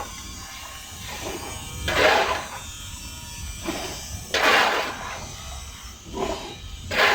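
Three rasping scraping strokes, each about half a second long and about two and a half seconds apart.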